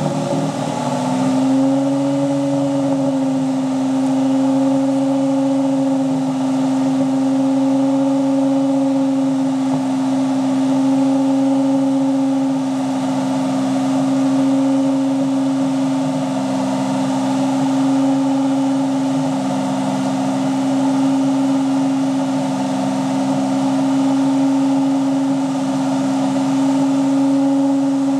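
Nissan Maxima V6 engine running steadily at raised revs, its pitch settling from a rev-up in the first couple of seconds and then holding even. The engine is burning off a Seafoam treatment through the exhaust.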